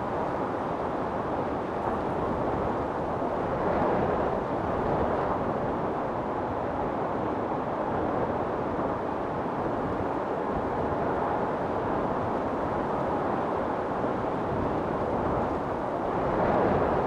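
Storm wind blowing hard and steadily, with gusts swelling about four seconds in and again near the end.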